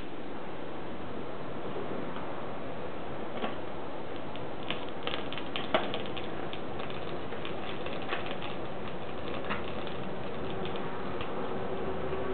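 Wood fire crackling in a small milk-powder-can stove: irregular sharp pops and snaps over a steady hiss, with one louder pop about six seconds in.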